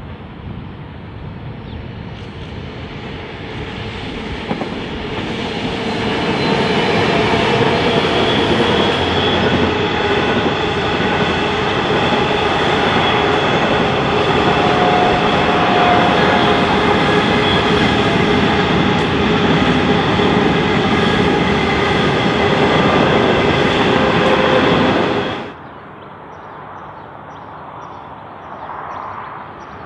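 Diesel-hauled coal train passing close by: the locomotives' engines grow louder as they approach, then a long string of coal hopper wagons rolls past with high, steady wheel squeal on the curve. The sound cuts off abruptly about 25 seconds in, leaving only faint background.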